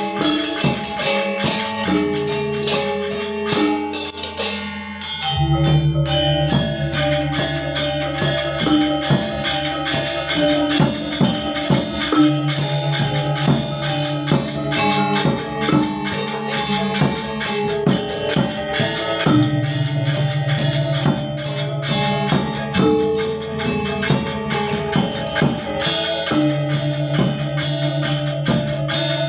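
Balinese gamelan ensemble playing: many bronze metallophone tones over a constant high clash of small cymbals, with deep gong tones sounding in long stretches. The cymbals drop out for a couple of seconds about four seconds in, just as the deep gong tone comes in.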